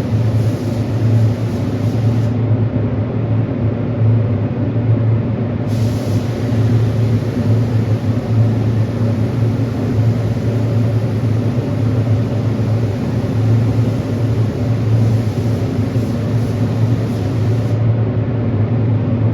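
Paint spray gun hissing as a heavy coat of clear is sprayed, over a steady low motor hum. The high hiss cuts out about two seconds in, comes back about six seconds in and stops again near the end, as the trigger is released and pulled.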